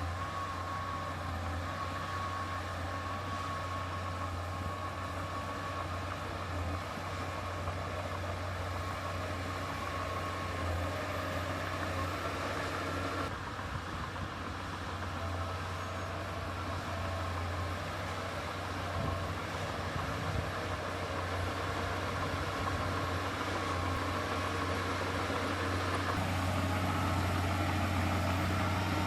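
Diesel engine of heavy earthmoving equipment running steadily, with a low steady hum and a faint whine above it; the sound changes abruptly about 13 seconds in and gets a little louder near the end.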